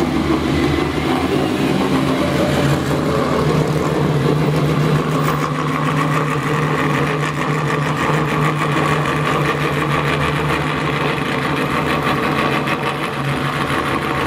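Ferrari 250 GTO's V12 engine running at low revs as the car creeps forward, holding a steady note throughout.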